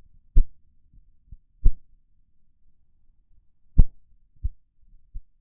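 A handful of short, dull low thumps at irregular intervals, the loudest about two seconds apart and nearly four seconds in, with almost nothing heard between them.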